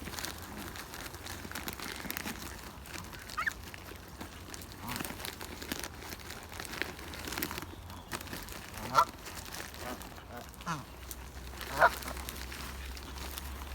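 Waterfowl calling: a few short honking calls, the loudest about nine and twelve seconds in.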